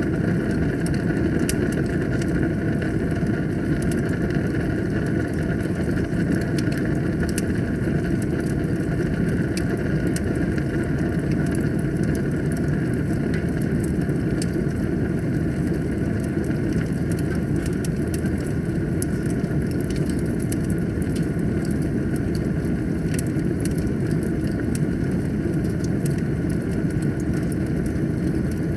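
Wood fire burning in a fireplace: a steady low rush of flames with many sharp crackles and pops scattered all through.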